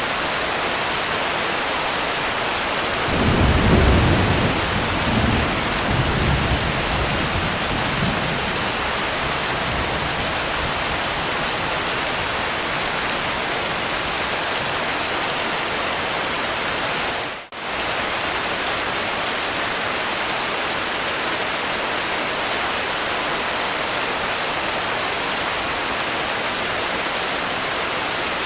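Steady heavy rain with a low rumble of thunder starting about three seconds in and rolling for several seconds. About two-thirds of the way through, the rain sound briefly dips almost away and comes straight back.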